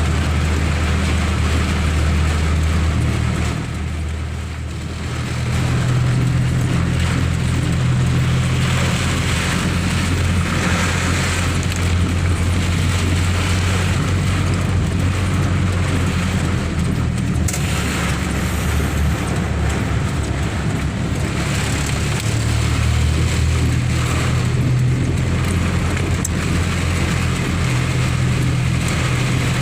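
Steady low rumble of a road vehicle with an even hiss over it, the rumble shifting in pitch now and then and dropping briefly about four seconds in.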